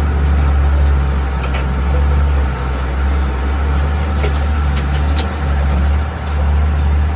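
A large truck engine running steadily with a deep, even rumble. A few short, sharp clicks come around the middle.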